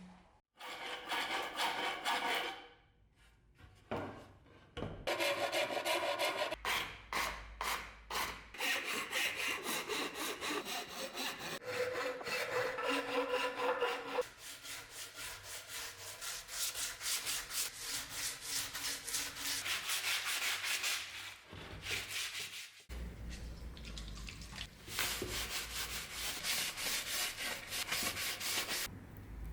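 Wood being hand-sanded: abrasive rubbed back and forth over the wood in quick, rhythmic strokes, with a short pause early on and another a little over two-thirds through.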